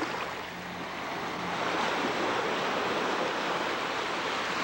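Sea surf rushing, the wash of a wave swelling about a second and a half in and then holding.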